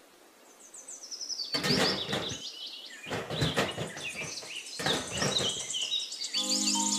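Birds chirping and twittering over a background haze of noise, starting after a brief near-silent moment; music with steady sustained notes comes in near the end.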